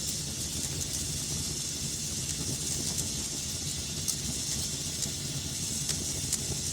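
Wood fire burning in a fireplace: a steady low rush with hiss, and scattered sharp crackles and pops from the logs.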